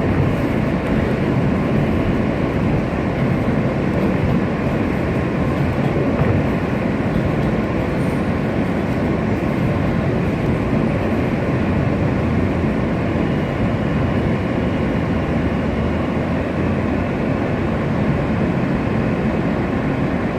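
New York City subway W train in motion, heard from inside the car: a steady rumble of the wheels on the track and the car running.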